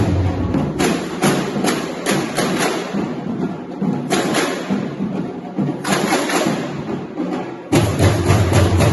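Samba school bateria playing: a dense percussion groove of drums and bright rattling shakers and hand percussion. The deep bass drums drop back early on and come back in strongly near the end.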